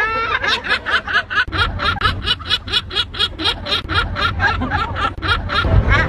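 A bird giving a rapid laughing call: a long run of short, hooked notes repeated about five times a second.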